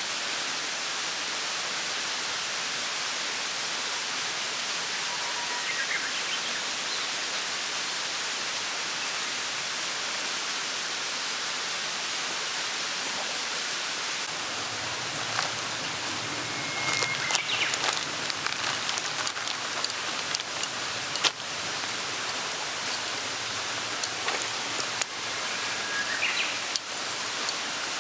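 A mountain stream's steady rushing murmur. From about halfway through, irregular sharp cracks and clicks join it.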